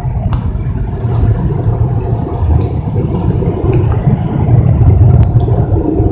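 Automatic car wash heard from inside the car's cabin: a steady, loud low rumble with a few sharp ticks scattered through it.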